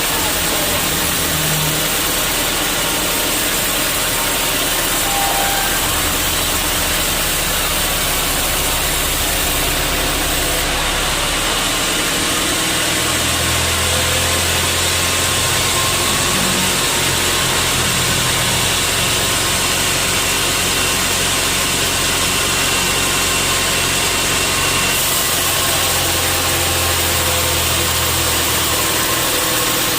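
Sawmill saw and its machinery running: a loud, steady mechanical noise with a low hum that shifts about a dozen seconds in and again a few seconds before the end.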